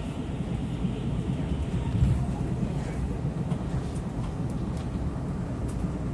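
Taiwan Railways passenger train running, heard from inside the carriage: a steady low rumble of the wheels on the rails, with a single louder knock about two seconds in.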